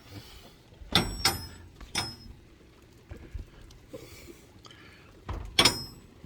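A few sharp knocks and clunks of hard objects being handled: a pair about a second in, one around two seconds, and a louder one near the end.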